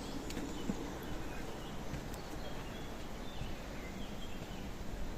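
Flowing river water as a steady rush, with faint bird chirps and calls over it.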